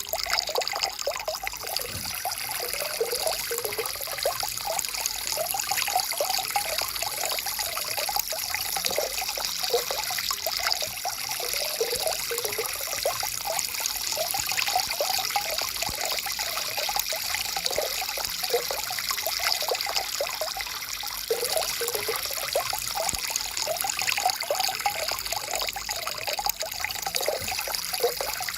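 Small forest stream trickling and babbling over stones, a steady run of little splashes and gurgles.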